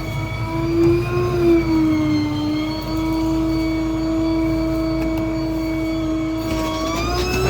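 Rear-load garbage truck's hydraulic pump whining steadily over the diesel engine's rumble as the packer runs. The pitch rises and dips about a second in, then holds, and climbs again near the end.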